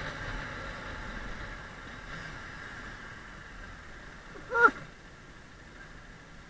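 Honda CB250 Hornet's inline-four engine running with a steady note that slowly gets quieter. About four and a half seconds in comes one short, loud, high chirp that bends in pitch.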